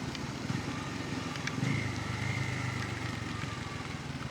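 Bajaj Pulsar N250's single-cylinder engine running under way, a steady hum that firms into a clearer, stronger tone from about one and a half seconds in, then eases off again.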